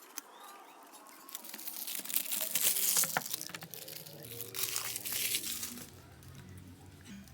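Crinkling and rustling of something being handled, in two spells: one from about one and a half to three and a half seconds in, and a shorter one near five seconds, each full of small crackles.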